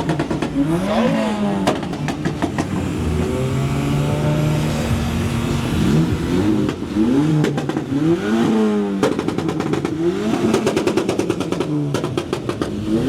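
Car engines being revved again and again, each rev rising and falling in pitch within about a second, with a steadier engine note around four seconds in and stretches of rapid crackling later on.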